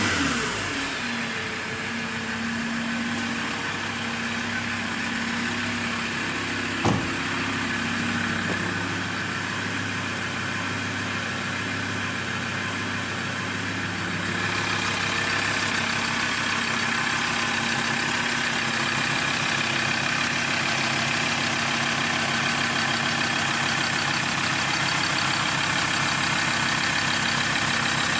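Mazda BT-50 pickup's engine settling from a rev into a steady idle. There is a single sharp click about seven seconds in, and about halfway through the idle grows a little louder and brighter.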